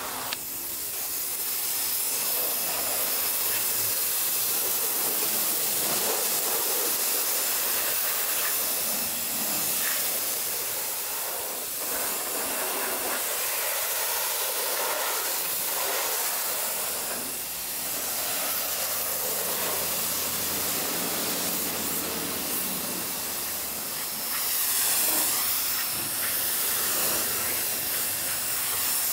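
High-pressure water spray from a pressure washer, hissing steadily and swelling a little about 25 seconds in.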